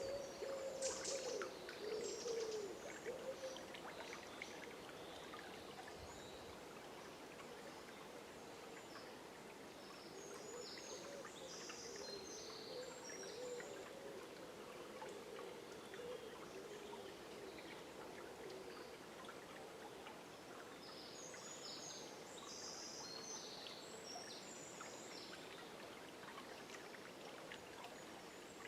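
Forest river flowing steadily, with two spells of high bird song, about a third of the way in and again past two-thirds.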